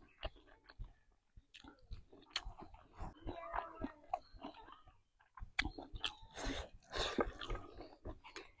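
A person chewing a mouthful of chicken and rice close to a clip-on microphone, with irregular clicks and mouth noises that come thicker about three seconds in and again past the middle.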